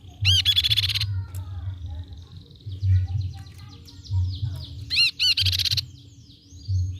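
Tepus pipi perak babbler song: two loud, fast trilled bursts of high arching notes, one just after the start and one about five seconds in, with scattered softer chirps between them.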